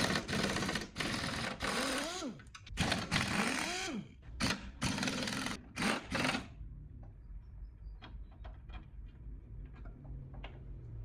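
A power tool running in several loud bursts, its pitch rising and falling within some of them, that stops about six and a half seconds in; after that comes a low hum with scattered light clicks and taps.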